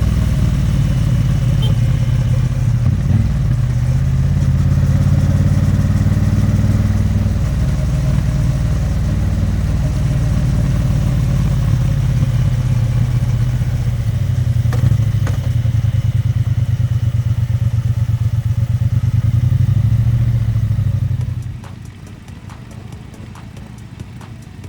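Triumph Bonneville T100's 900 cc parallel-twin engine running under way, its pitch rising and falling with engine speed. About 21 seconds in the sound drops off sharply to a much quieter, ticking beat.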